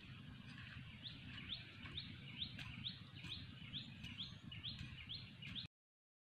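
A bird calling a steady series of short rising chirps, about two a second, over a low steady rumble. The sound cuts off abruptly near the end.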